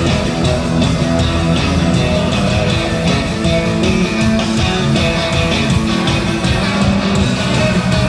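Live rock band playing an instrumental passage led by guitar, loud and steady with a regular beat, no singing.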